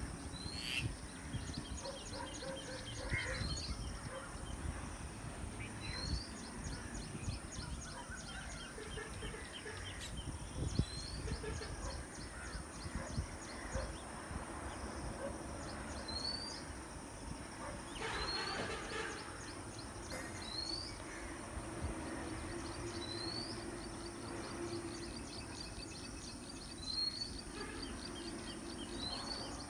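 Wild birds calling: a short, sharply rising call repeats roughly every two seconds, mixed with rapid ticking chatter. A steady high-pitched whine and low rumbling noise run underneath.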